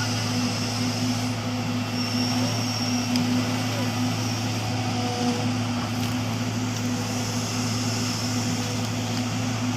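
A vehicle engine running steadily, a constant low hum with one clear overtone that holds unchanged throughout.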